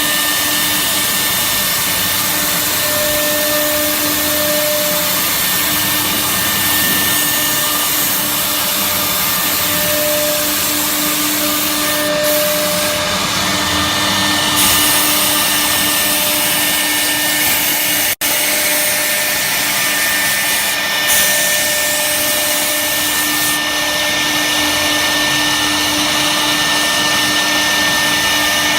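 CNC router's 6 kW HSD spindle running at speed and milling wood: a steady high whine over dense cutting noise. The sound drops out for an instant about eighteen seconds in.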